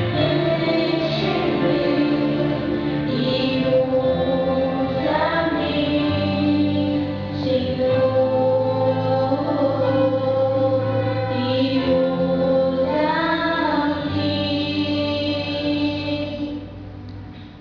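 Female vocal duo singing a gospel song together over steady instrumental accompaniment; the music drops to a soft level near the end.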